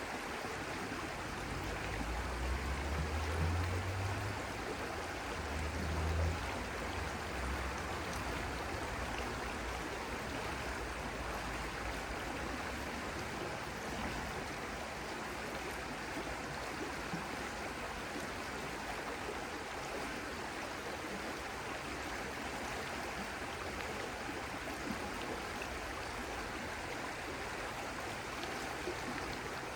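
Stream flowing steadily, an even rush of running water, with a low rumble in the first few seconds.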